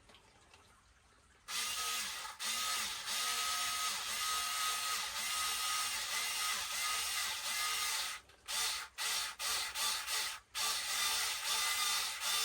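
Cordless power driver whirring steadily for several seconds, then in short stop-start bursts near the end, driving in screws.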